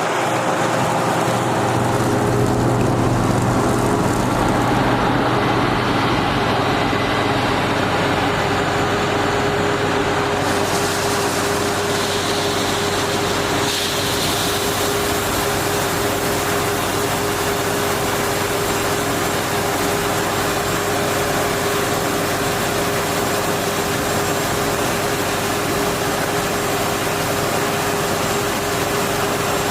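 Motor vehicle engine running steadily under a constant hiss of noise.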